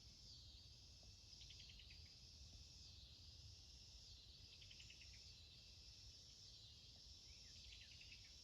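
Faint insect chorus: a steady high buzz that swells and fades about every second and a half, with a short falling run of chirps every few seconds.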